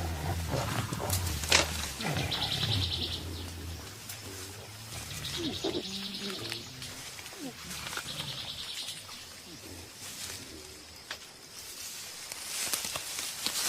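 Mountain gorillas giving low rumbling grunts, the calls they use to keep in touch while feeding, heaviest in the first few seconds, with scattered cracks and rustles. A high buzzing trill comes three times in the first nine seconds.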